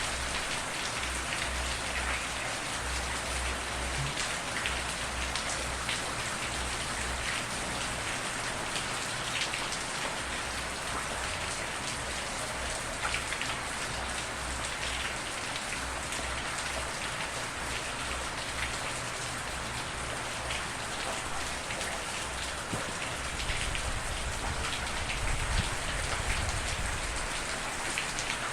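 Steady rain falling on a surface, an even hiss flecked with the ticks of individual drops, with a faint deep rumble underneath that swells a little near the end.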